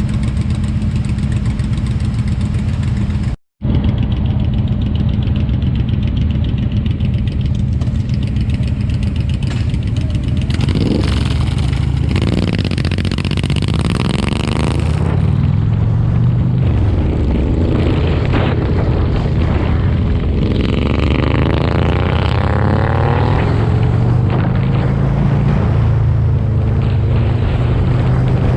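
Motorcycle engine running, its pitch rising and falling several times as it accelerates and shifts through the gears. The sound cuts out for a moment about three and a half seconds in.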